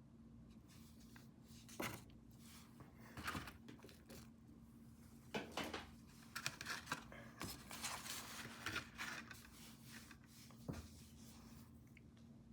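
Faint, scattered clicks and rustles of small objects being handled at a craft table, over a steady low hum.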